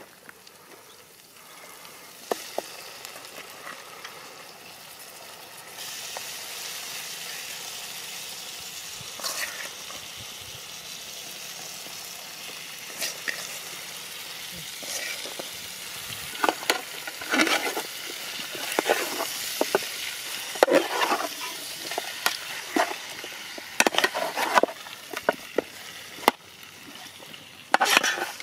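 Fried chicken pieces sizzling as they are added to a metal pot over a wood fire; the hiss sets in about six seconds in. From about halfway, a metal spoon clatters and scrapes against the pot as the chicken is stirred.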